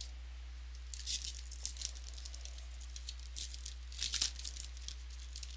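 A trading-card pack wrapper being torn open and crinkled by hand: two spells of crackling, about a second in and again about four seconds in. A steady low electrical hum runs underneath.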